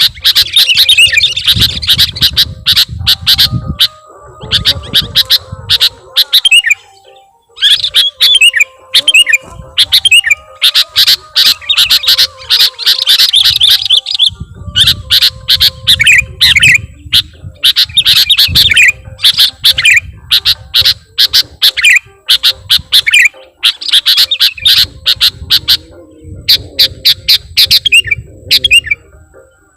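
Sooty-headed bulbul (kutilang) calling in rapid bouts of short, chattering notes broken by brief pauses, as used in a trapper's lure recording. A low rumble sits under several of the bouts.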